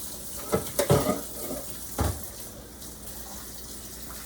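Pot of soup boiling on the stove, a steady watery hiss, with a few short knocks of a utensil or lid against the pot about half a second, one second and two seconds in.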